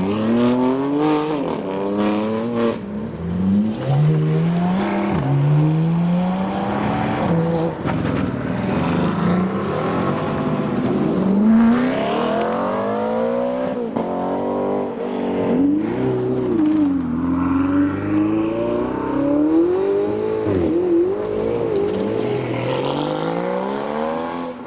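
Supercar engines accelerating hard as the cars pass one after another. In the first few seconds the pitch climbs and drops back again and again as the revs rise through the gears with quick upshifts; later the engine notes rise and fall as more cars drive by.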